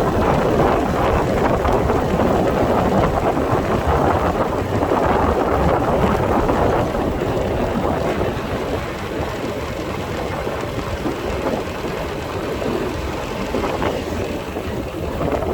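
Rushing wind noise on the microphone of a moving motorcycle, over the engine and road noise. It eases a little about halfway through.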